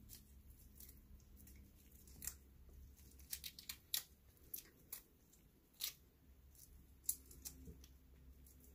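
A person chewing grilled seafood close to the microphone: faint, irregular mouth clicks and smacks, unevenly spaced, the sharpest a few seconds in and again about seven seconds in.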